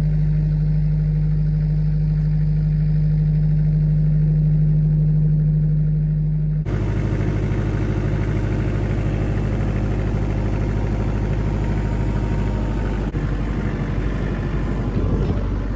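Vehicle engine running steadily with a strong low hum. About six and a half seconds in, it cuts abruptly to a rougher, fuller engine sound.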